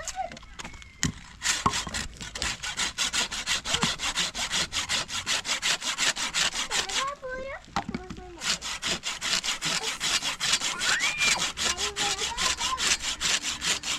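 Hand saw cutting wood in quick, even strokes, about four or five a second, pausing briefly about halfway through before sawing on.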